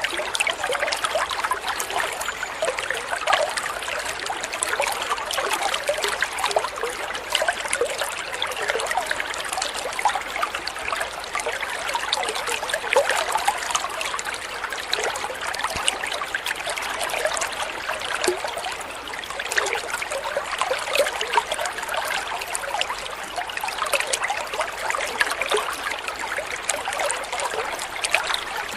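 Water trickling and splashing in a small stream or fountain: a steady babble of many small splashes.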